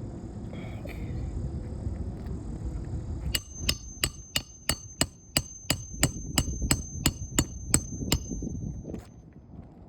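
Hammer driving a nail into an asphalt roof shingle: about fifteen quick, even blows, roughly three a second, starting a few seconds in and stopping near the end.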